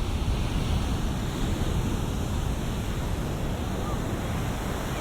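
Ocean surf breaking and washing on the shore, a steady dense rush, with wind buffeting the microphone into a low rumble.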